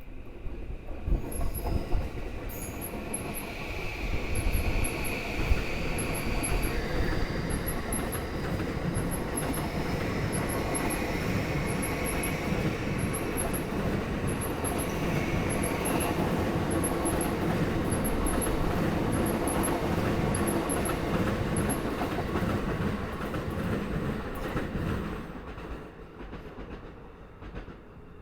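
Sobu Line train running through the station over rail joints, with a heavy rumble and clatter of wheels on the joints and a long metallic wheel squeal over it. It dies away a few seconds before the end.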